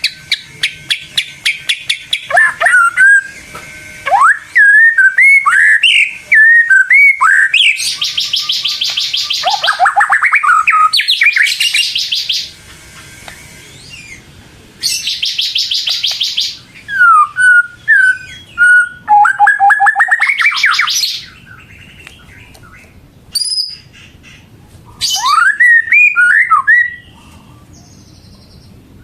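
White-rumped shama (murai batu) singing loudly: a varied run of sweeping, gliding whistles mixed with fast, rattling trills, delivered in phrases. The song is nearly continuous for the first two-thirds, then comes in shorter phrases with longer pauses between them.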